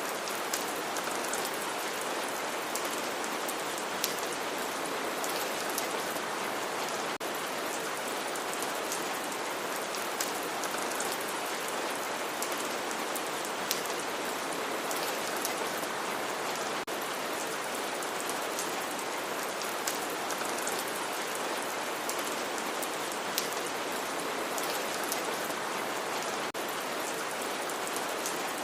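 Steady rain falling, a continuous even hiss with the light ticks of individual drops striking a surface scattered throughout.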